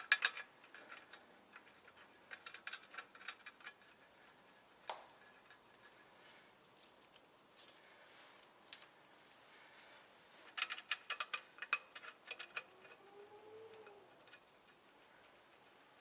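Faint, scattered metallic clicks and clinks of bolts and hand tools as the clutch pressure plate's studs are fitted, with a quick run of clicks about ten to twelve seconds in.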